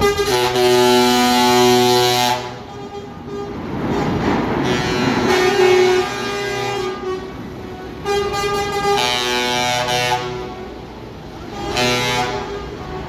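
Truck air horns sounding from passing lorries: a long blast at the start, then several more blasts of different pitches, with traffic noise between them.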